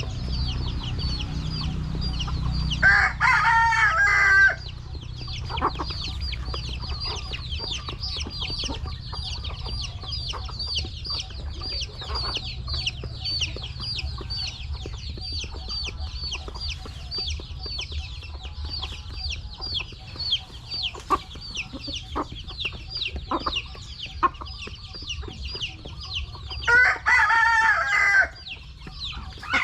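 A flock of chickens with many chicks peeping continuously in high, quick falling chirps. A rooster crows twice, about 3 seconds in and near the end, and there are scattered sharp taps.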